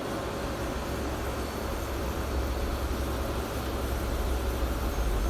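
A truck passing outside, its low rumble building, with a faint high brake squeal near the end. Under it, a late-1980s/early-1990s Kenmore Whirlpool window air conditioner runs steadily on low fan with its compressor on.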